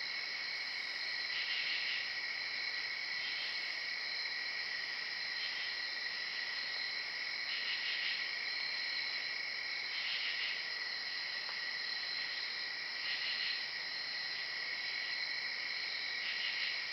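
Steady high-pitched insect chorus, crickets trilling without a break, with a louder pulse swelling every two to three seconds.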